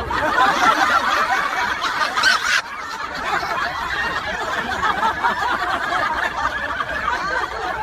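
Several people laughing and chuckling together, starting suddenly and loudest for the first two and a half seconds, then carrying on more softly.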